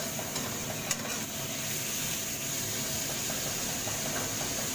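Tomato wedges sizzling steadily in a wok as a metal spatula stirs them, with one click of the spatula against the pan about a second in.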